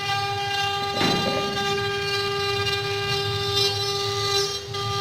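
CNC wood-carving router running: the spindle gives a steady, unchanging high whine, over the noise of the cutter working the wood, which rises and falls, with a single knock about a second in.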